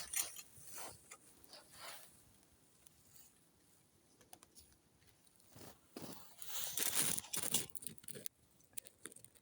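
Dry fallen leaves rustling and crunching in bursts: a few soft crunches at the start, a louder run of rustling about six to eight seconds in, then a few light clicks.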